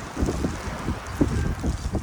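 Strong blizzard wind buffeting the microphone in irregular gusts, over a steady hiss of blowing wind.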